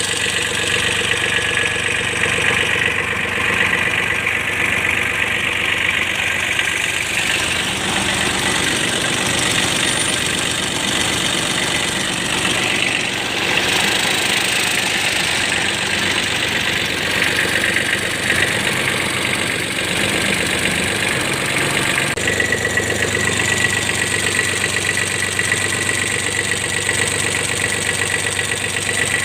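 Kubota D905 three-cylinder diesel engine running steadily at idle. This is an engine with a hard-starting and blowby complaint. Its note changes slightly about two-thirds of the way through.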